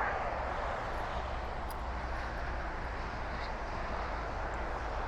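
Steady wash of motorway traffic noise: a constant hiss of tyres over a low rumble, with no single vehicle standing out.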